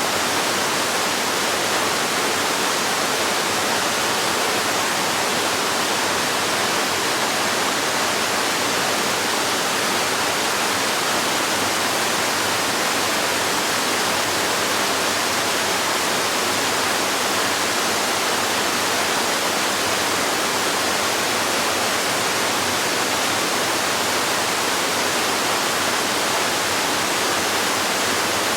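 Waterfall splashing: a steady, even rush of falling water with no change.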